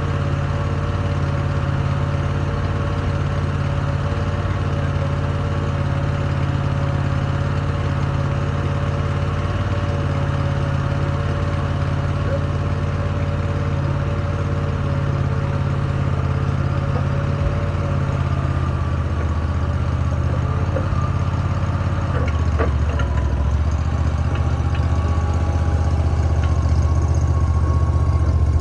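Large engine idling steadily. About 22 seconds in, its low note shifts deeper and a few short clicks sound.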